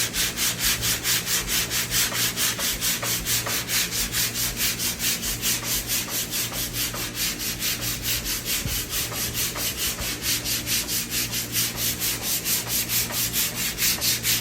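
80-grit sandpaper rubbed back and forth by hand over body filler, a steady rasping rhythm of about four strokes a second.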